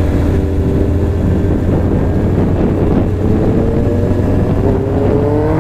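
Big-bike motorcycle engine and exhaust running under way, loud, with its pitch rising over the last two seconds as it accelerates.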